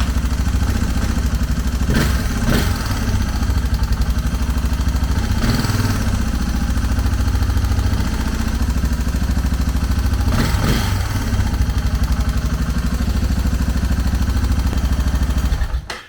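Suzuki DR650's single-cylinder four-stroke engine running at idle on its first start after a carburetor rebuild, with a few brief louder surges as it is put into first gear and rolled forward off the clutch. The engine shuts off suddenly near the end.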